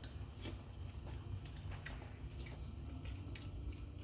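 Tomato sauce simmering in a pan, with small irregular pops and ticks over a low steady hum.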